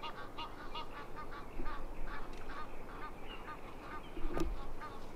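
Goose-like bird honks in a rapid repeated series, about four short calls a second. A short knock comes about four seconds in.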